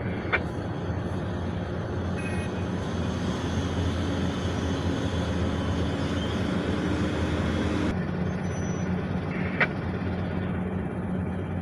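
Scania dump truck's diesel engine running steadily with a low drone while the truck manoeuvres. A sharp click comes shortly after the start and another about ten seconds in.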